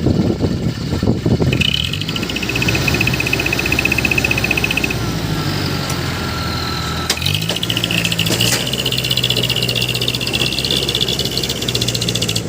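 Diesel truck engine running hard: a rough rumble for about a second and a half, then a steady engine note that steps up in pitch about seven seconds in, with a high whine above it.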